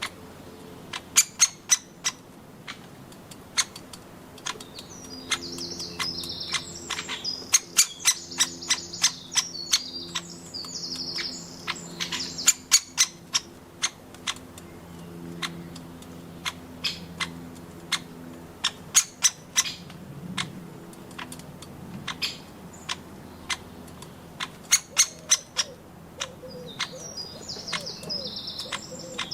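Woodpecker pecking: irregular sharp knocks, often in quick runs, with high chattering bird calls between about five and thirteen seconds in and again near the end.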